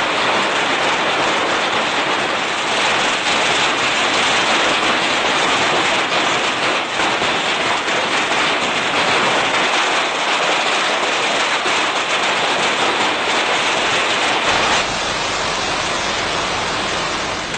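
Heavy hailstorm: a dense, continuous clatter of hailstones and rain pelting down on hard surfaces. Near the end the sound turns a little duller, with a low hum underneath.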